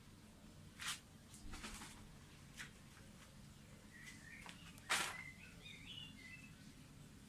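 A few short scuffing noises, the loudest about five seconds in, with faint bird chirps in the background.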